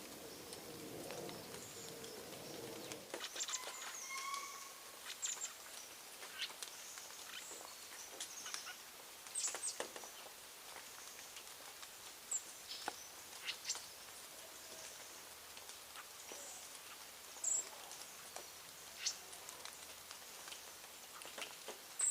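Birds at a feeding spot: a low cooing for the first few seconds, then scattered sharp pecking clicks and taps with short high chirps and a few brief whistles.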